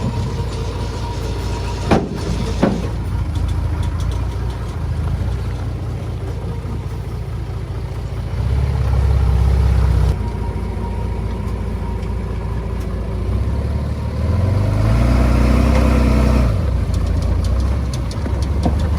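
Komatsu D20A bulldozer's diesel engine running steadily, rising twice under load as it pushes, with two sharp knocks about two seconds in.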